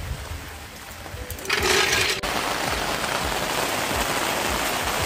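Rain falling steadily, with a short louder rush of hiss about a second and a half in, after which the rain stays louder.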